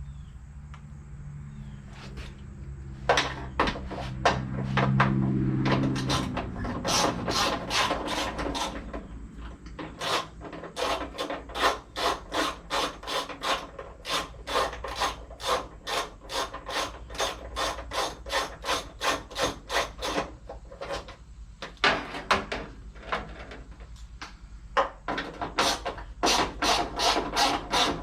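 Hand tool worked in quick back-and-forth strokes on engine parts, a rasping scrape about two to three times a second, with a few short pauses.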